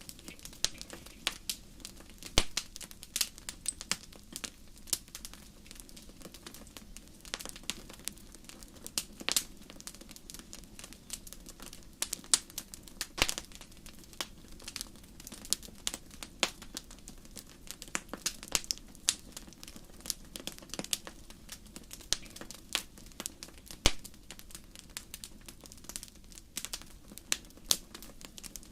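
Wood fire crackling in a fireplace: irregular sharp pops and snaps, many a second, over a soft steady rush of flame.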